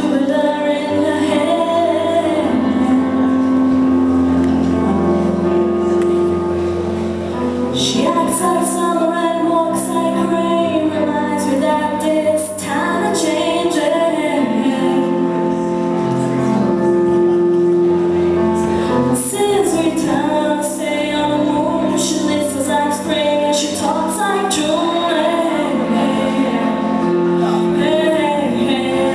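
Two women singing a pop ballad live, with acoustic instrumental accompaniment.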